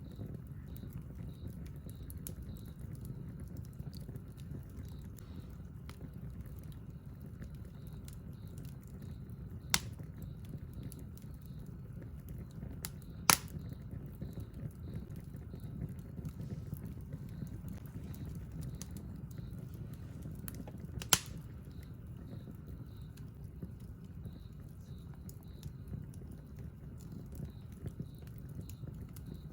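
Wood campfire burning with a steady low rumble and faint crackling, broken by three sharp pops from the burning wood, the loudest about 13 seconds in.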